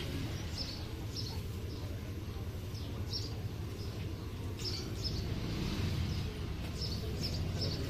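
Short, high bird chirps repeated every second or so over a steady low rumble of street noise.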